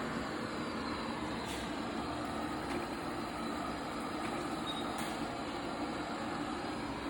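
iLife V9 Pro robot vacuum running steadily, its suction motor and brushes giving an even whirring hum, with a couple of faint clicks.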